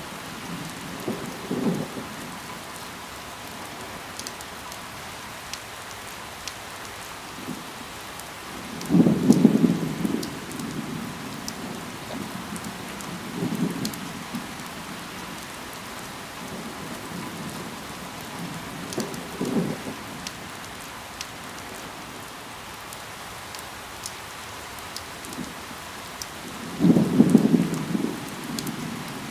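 Steady rain falling, with scattered sharp drop ticks. Five short low rumbling thuds rise over it, the loudest about nine seconds in and again near the end.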